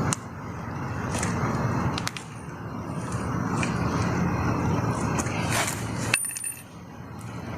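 A plastic pipe fitting being screwed onto a pool pump by hand, with small clicks and scrapes over a steady background rumble that drops away abruptly a few times.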